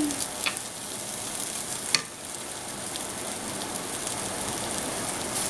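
Diced chicken breast sizzling in oil in a nonstick frying pan, a steady hiss, nearly cooked. A plastic spatula clicks against the pan a couple of times, loudest about two seconds in.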